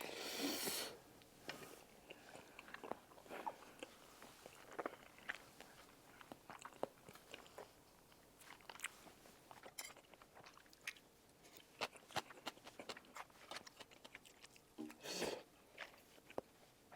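Close-miked chewing of spicy tteokbokki rice cakes in broth: soft, wet mouth clicks and smacks at an irregular pace. There is a longer noisy rush in the first second and another around 15 seconds in.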